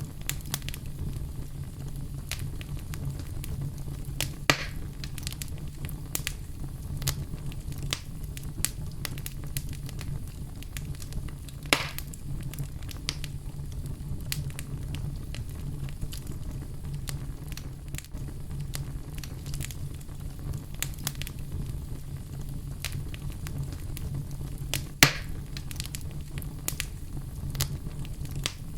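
Wood fire in a fireplace crackling: frequent small crackles over a steady low rumble, with three louder pops, the loudest near the end.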